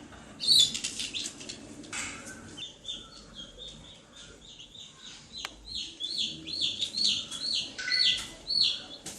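A bird chirping: a few sharp chirps at first, then a steady run of short repeated high chirps, about two to three a second.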